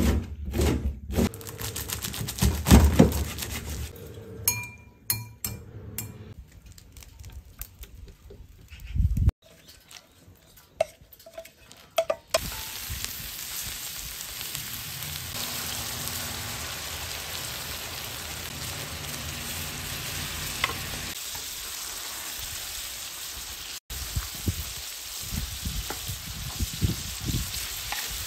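A kitchen knife chops green onion on a cutting board with a run of sharp knocks for the first several seconds. From about twelve seconds in, food sizzles steadily as it fries on a cauldron lid used as a griddle, and near the end a wooden spatula scrapes and taps against the lid while stirring fried rice.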